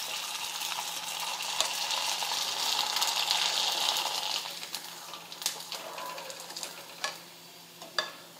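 Sago (sabudana) papad deep-frying in hot oil: a steady sizzle that swells over the first four seconds, then dies down as the papad puffs. A few light clicks of the wire skimmer against the pan, the sharpest near the end.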